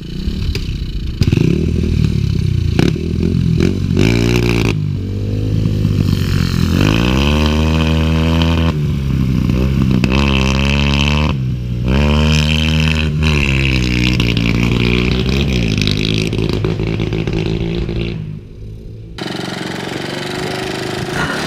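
Pit bike engine revving up and down several times, its pitch climbing and falling in repeated surges as the bike is ridden, with steadier running between.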